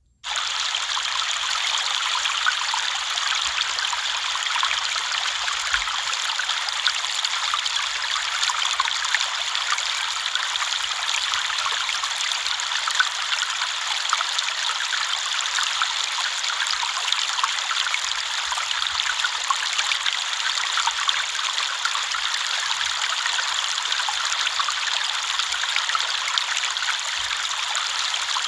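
Flowing river water: a steady rush with fine trickling, cutting in abruptly at the very start.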